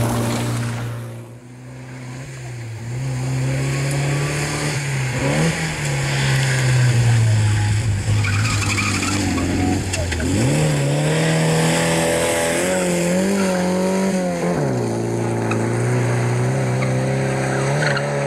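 Skoda 105 rally car's engine being driven hard, its pitch rising and falling over and over as the car lifts, brakes and accelerates between corners. The engine drops away sharply about a second in and again near the ten-second mark before climbing back up.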